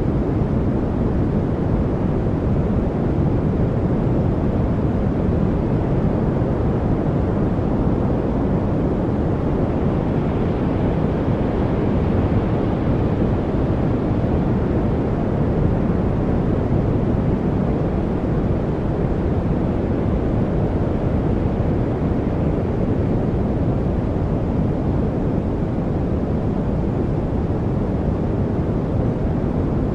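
Steady, even noise from a study white-noise track, deep in tone, with no birds, drips or other distinct sounds in it.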